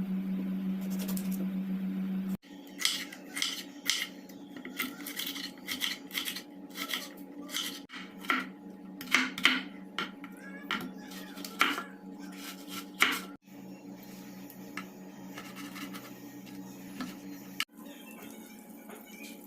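Dishes and cutlery clattering and clinking in a kitchen, many sharp knocks in irregular succession over a steady low hum, broken by several abrupt cuts.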